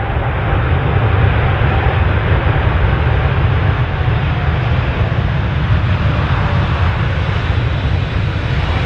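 Boeing 777F freighter's twin GE90 turbofan engines on a landing: loud, steady jet noise with a deep rumble underneath.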